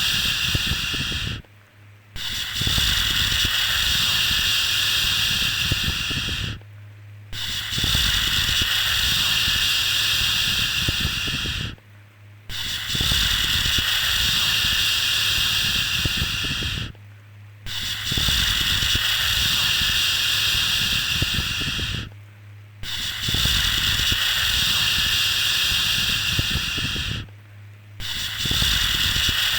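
A long 'shhh' shushing sound, repeated in a loop: each shush lasts about four and a half seconds, then breaks off for under a second before the next begins, six breaks in all. A faint low hum runs under it.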